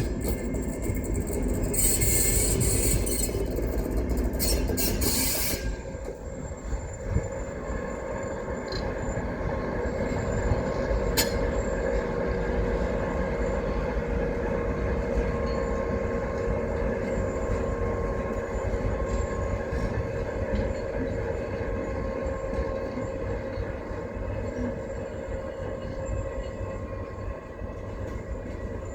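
A train running on the track, with a loud hiss in the first five seconds or so. After that a steady tone carries on over a low rumble that slowly fades.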